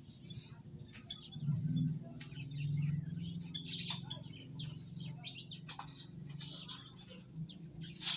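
Small aviary birds chirping: many short, high chirps in quick succession, over a low hum.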